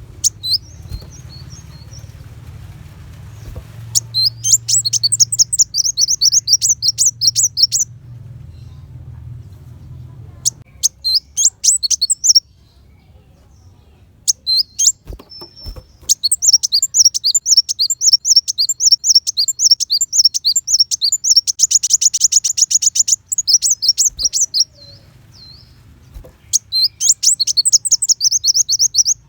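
Kolibri wulung sunbird singing: bursts of rapid, high-pitched, sharp trilled notes, several phrases of one to eight seconds separated by short pauses.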